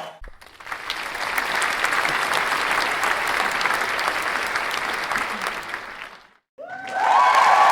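Crowd applauding, a dense even clatter of many hands clapping that fades out about six seconds in. After a brief silence a second round of applause starts loudly, with held voice-like tones of cheering over the clapping.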